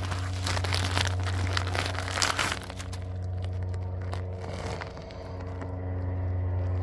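Clicks, knocks and rattles of parts being handled as a new fuel pump is fitted, busiest in the first two seconds or so, over a steady low hum.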